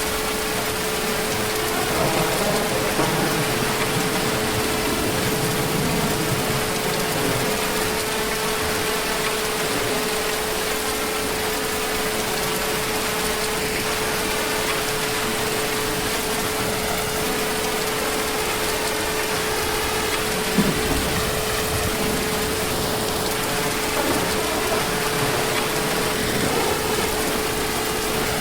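Heavy rain falling steadily, a dense even hiss, with a faint steady humming tone under it and a single brief thump about twenty seconds in.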